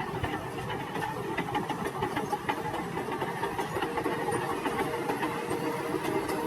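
An engine running steadily, with a faint held tone and scattered light ticks.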